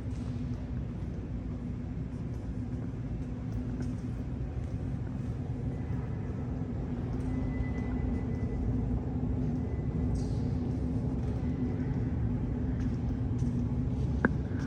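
Metro station ambience: a steady low rumble with a constant hum, growing a little louder in the second half, and one sharp click near the end.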